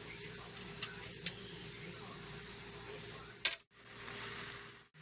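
Cubed marinated chicken and onion sizzling in a pan of hot oil: a steady hiss with a few light clicks. The sound cuts out briefly twice near the end.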